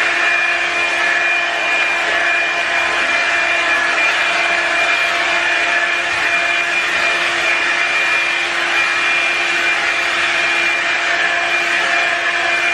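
Revlon blow dryer running steadily: a loud, even rush of air with a constant motor whine over it.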